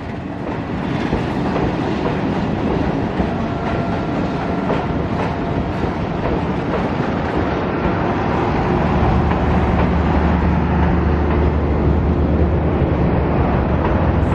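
Train running on the rails, a steady rumble with wheels clacking that slowly grows louder. A deeper steady hum comes in from about nine seconds in.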